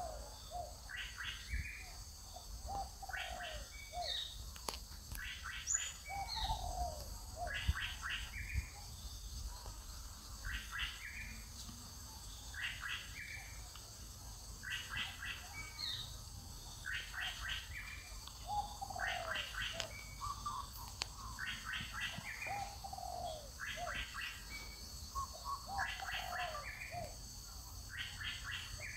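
Birdsong: a short burst of quick high notes repeated about every two seconds, with lower falling notes in between.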